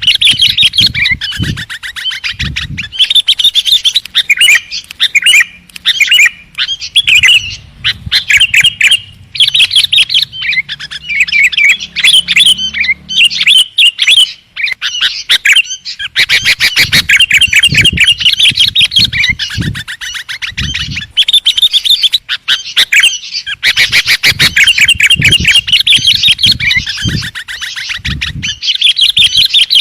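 Sooty-headed bulbul (kutilang) calling loudly in fast runs of chirps, with short breaks about halfway through and again about three quarters of the way through.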